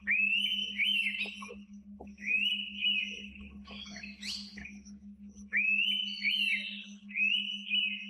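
Indian pitta giving its clear whistled call several times: each whistle rises sharply and is then held, several coming in twos. A brief, higher, scratchier call comes about four seconds in, over a steady low hum.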